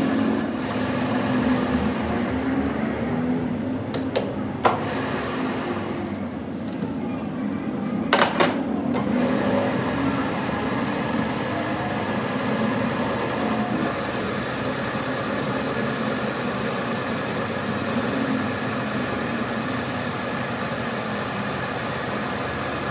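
Metal lathe running steadily, with two sharp metallic clicks about four seconds in and two more about eight seconds in.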